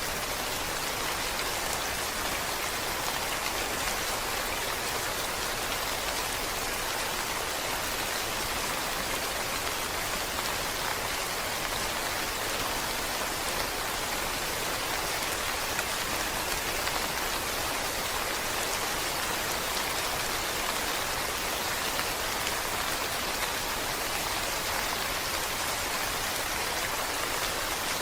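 Steady rain falling on a surface, an even hiss of many drops with no change in level.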